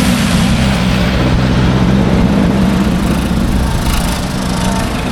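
Antique car engines running hard as cars race past, a steady low engine note that wavers slightly and eases a little near the end.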